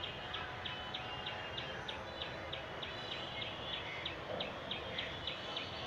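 A bird repeating a short, high chirp about three times a second in a steady, even series, over a faint background hiss.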